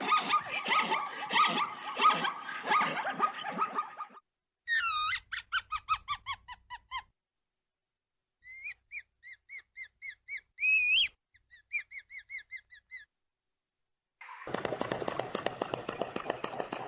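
Several short clips of animal calls cut together, with dead-silent gaps between them. First comes about four seconds of rapid, dense chattering calls, then a quick run of chirps that fall in pitch. After a pause there is a series of short high chirps with one louder rising call in the middle, and near the end another burst of dense, rapid calling.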